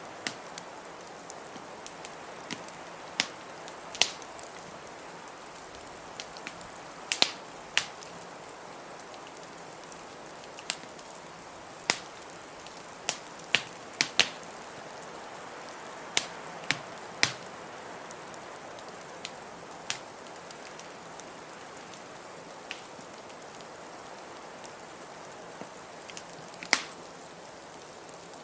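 Wood fire crackling in a fireplace: irregular sharp pops and snaps, a few every couple of seconds, over a steady background hiss.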